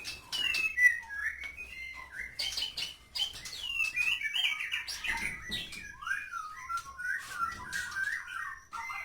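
Caged white-rumped shamas (murai batu) singing, a steady stream of varied whistles, slides and quick chirps with sharp clicking notes mixed in, running into a rapid chattering run of notes in the second half.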